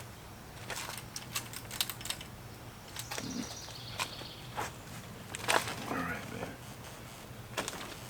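Scattered light clicks and knocks from handling the motorcycle before a start, over a faint steady low hum; no engine running yet.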